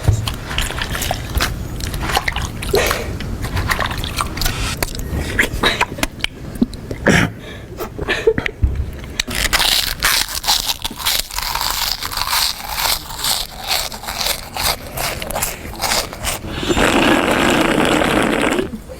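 A person eating noisily: wet chewing, smacking and slurping, with many quick irregular crunches and clicks. Near the end comes a longer, louder noisy stretch of a couple of seconds.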